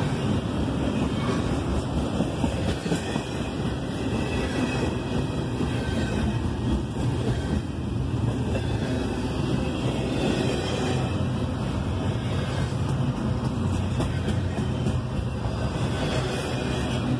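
CP Rail intermodal freight train of double-stack container well cars rolling past close by: a steady rumble of steel wheels running on the rails.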